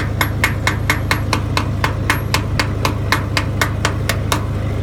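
Rapid, evenly spaced metallic ticking, about five a second, over a steady low engine hum. The ticking stops near the end.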